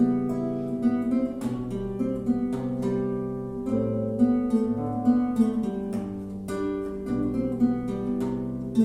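Solo acoustic guitar playing a piece: a plucked melody over held bass notes, with occasional strummed chords.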